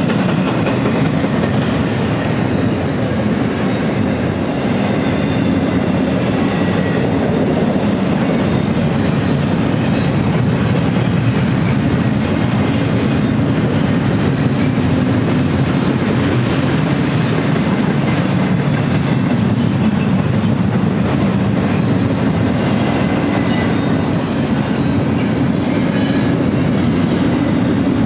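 Double-stack intermodal freight train's well cars rolling past at track level: a steady, loud rumble with the clickety-clack of wheels over the rail joints.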